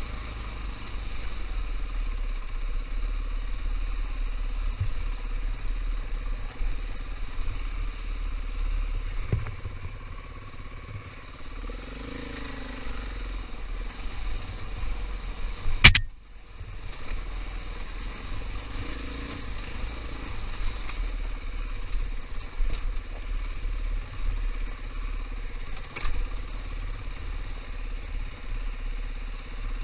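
KTM 500 EXC dirt bike's single-cylinder four-stroke engine running steadily while riding, with one sharp knock about halfway through.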